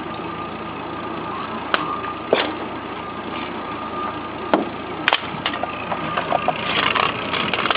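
Engine idling steadily, with a few sharp clicks or taps over it.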